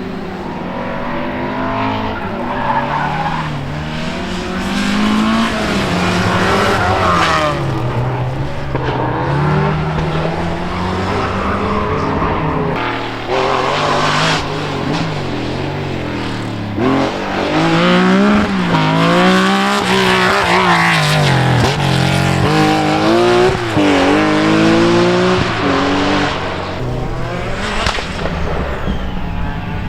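Historic rally car engine revving hard, its pitch climbing and dropping again and again through gear changes, louder in the second half.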